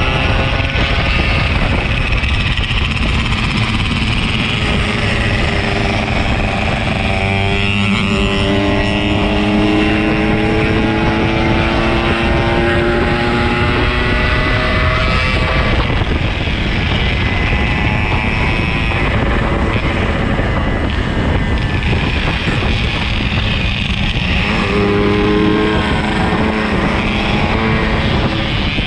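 Yamaha RX-King 135's single-cylinder two-stroke engine running under way. Its pitch climbs steadily several times and drops back at each gear change, over steady wind and road noise.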